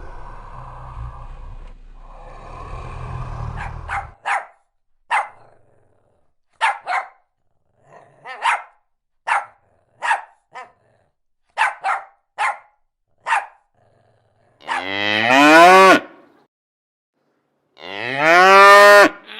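A cow mooing: two loud, long calls that rise in pitch, near the end. Before them comes a string of about a dozen short, sharp calls roughly a second apart.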